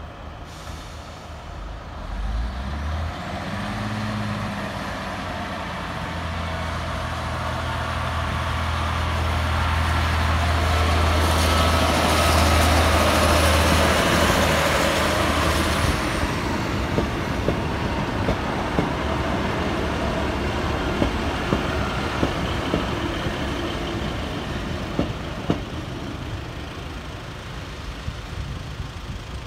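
Class 153 diesel railcar passing over a level crossing. Its engine note and wheel-on-rail rush build to a peak about halfway through, then fade as it draws away, leaving scattered clicks from the wheels on the track.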